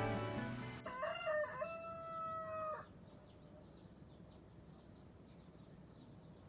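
Background music cuts off under a second in. A rooster then crows once, a single call of about two seconds, followed by faint small-bird chirps.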